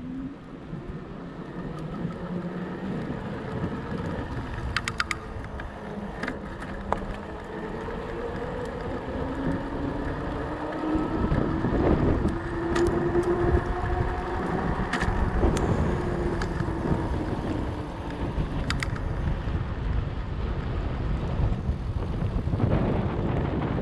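Fat bike rolling on 4.4-inch Schwalbe Jumbo Jim tyres. The tyres rumble and give off a faint hum that rises and falls with speed, over wind on the microphone. A few sharp clicks come through.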